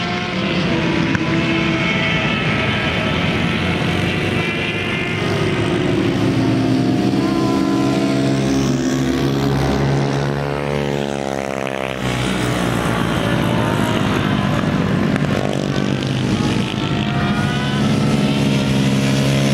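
Yamaha TT-R110's small four-stroke single-cylinder engine run hard on a track lap, its revs climbing and dropping again and again through gear changes, with a long falling drop in revs about halfway through.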